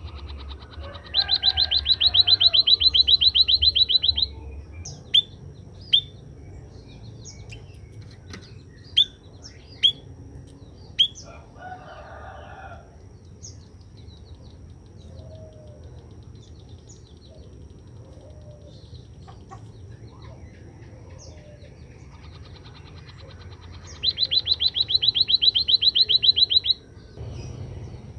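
White-headed munia (emprit kaji) calling: a loud, rapid, high trill of even pulses lasting about three seconds, then a few short, sharp single chirps. Near the end it gives a second trill of the same kind.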